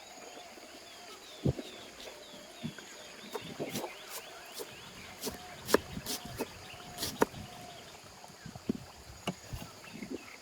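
Irregular sharp clicks and knocks of hands-on food preparation, over birds calling in short, repeated notes.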